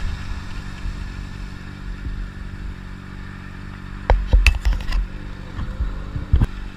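Motorcycle engine idling steadily, with a cluster of sharp knocks and clatter about four to five seconds in and another knock near the end.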